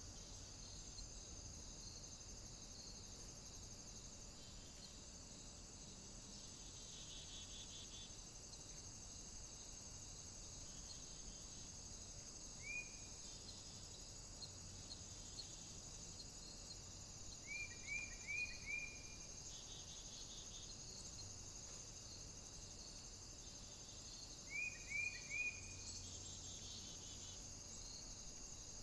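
A small bird calling: short chirps, once and then in quick runs of three or four, over a steady high hiss.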